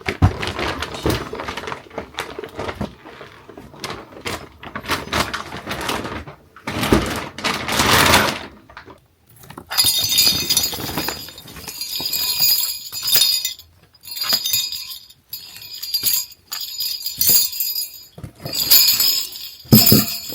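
Bags of stored Christmas decorations being rummaged through: rustling for the first half, then repeated clinking of hard decorations knocking together.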